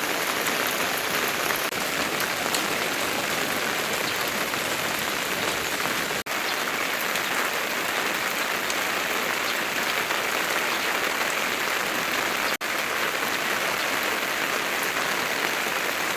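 Heavy rain falling steadily, a dense even hiss of downpour. It cuts out for an instant twice, about six seconds in and again near twelve and a half seconds.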